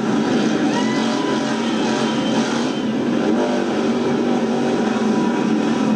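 Steady, loud din of many motorcycle engines running together.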